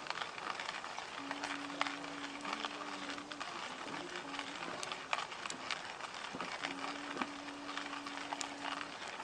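Wood campfire burning with irregular sharp crackles and pops over a steady hiss. A faint pitched tone is held for about two seconds, twice, with short stepping notes between.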